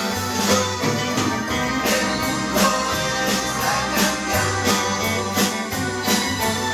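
Band music with guitar and a drum kit keeping a steady beat, in an instrumental passage without singing.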